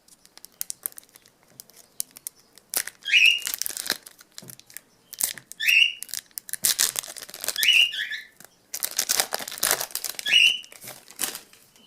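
Foil trading-card pack wrappers crinkling and being torn open, in repeated bursts of crackling. Four short high chirps cut through along the way.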